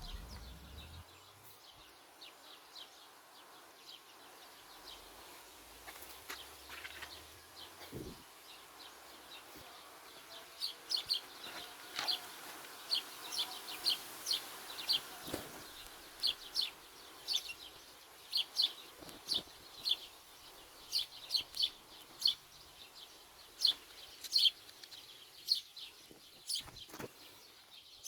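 Small bird giving short, sharp chirps over and over, about one or two a second, starting about ten seconds in and coming more often and louder towards the end.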